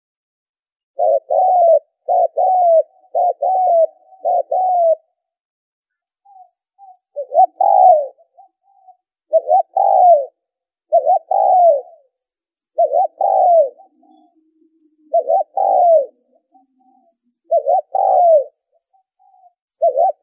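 Spotted dove cooing over and over: a quick run of four coos about a second in, a pause, then two-part coos about every two seconds. Faint high chirps from a small bird sound in the background.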